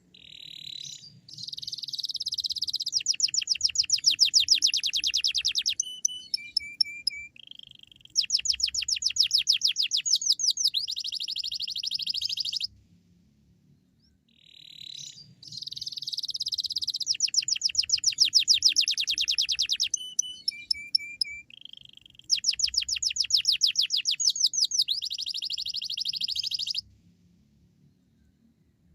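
Domestic canary singing vigorously: long phrases of fast, high trills and sharp chirps. The same song phrase comes twice, each about twelve seconds long, with a short pause between them and after the second. This is the kind of song played to set other canaries singing.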